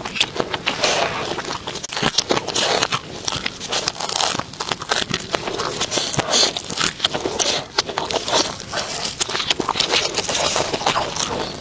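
Close-miked eating: dense, irregular crunching and smacking of food being bitten and chewed.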